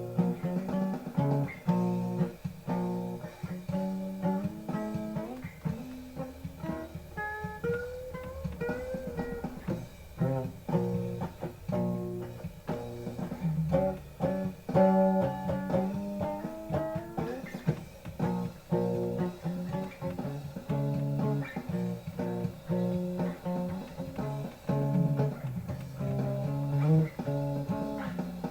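Guitar music: an instrumental passage of plucked notes with no singing, with a few notes sliding up in pitch about eight seconds in.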